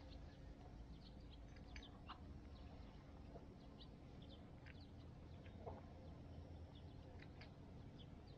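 Near-silent outdoor ambience: faint, scattered short bird chirps over a low, steady rumble.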